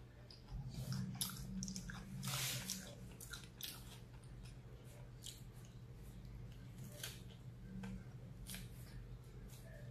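Close-up eating sounds of a fish taco in a soft mini tortilla shell: wet mouth clicks, biting and chewing, in short irregular snaps.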